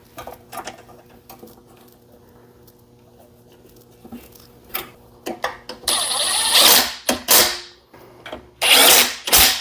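Cordless drill-driver run in short bursts, driving the screws that fasten the blower shroud onto a small Briggs & Stratton engine: one run of about a second and a half starting about six seconds in, and another near the end. Before that there are only light clicks and taps of handling.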